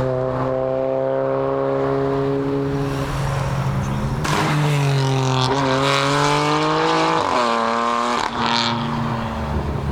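Car engine and exhaust pulling away: it holds a steady note for a few seconds, then accelerates hard with a rising pitch, drops once about seven seconds in as it shifts up, and fades as it drives off.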